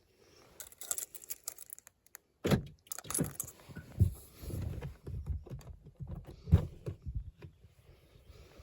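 Irregular handling noises in a small enclosed space: light clinks and rustles with dull knocks, breaking off abruptly a couple of times.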